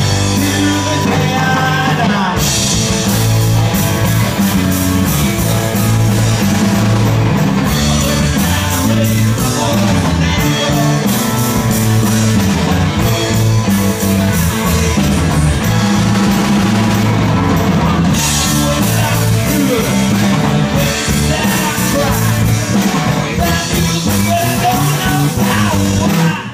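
Rock band playing loudly, with drum kit, electric guitar and bass under a sung vocal; the music stops abruptly at the very end.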